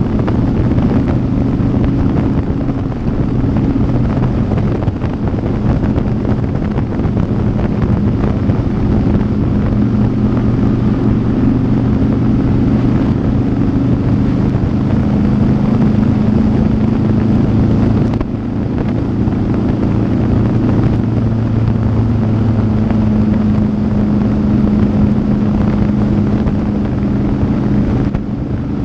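Motorcycle engine running steadily at road speed under heavy wind noise on the microphone. The engine note shifts a little, and the sound dips briefly about two-thirds of the way through and again near the end.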